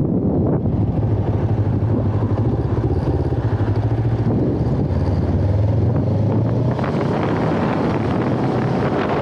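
Kawasaki Ninja 500R's parallel-twin engine running under way at a fairly steady speed, with wind rushing over the microphone, heavier from about seven seconds in.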